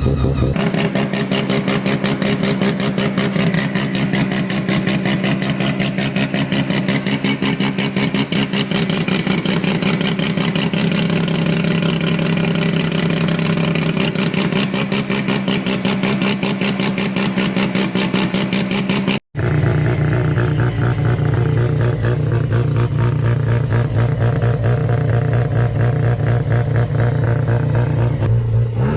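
Mazda 12A rotary engine running at a steady high speed with a rapid buzzing exhaust note. About two-thirds of the way in it cuts sharply to another 12A running steadily at a lower pitch.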